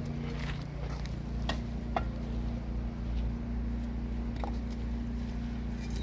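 A machine's engine running steadily with a low hum, with a few sharp knocks or clinks of work on the site, about one and a half, two and four and a half seconds in.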